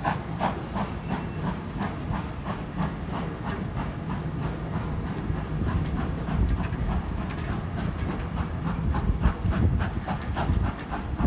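Steam-hauled passenger train pulling away slowly: a steady run of rhythmic clicks and clanks from the coach wheels over rail joints and points, over a low rumble.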